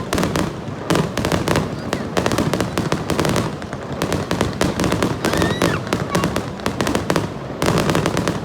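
Fireworks bursting in quick succession: many sharp bangs and crackles overlapping over a low rumble, with voices of onlookers in the background.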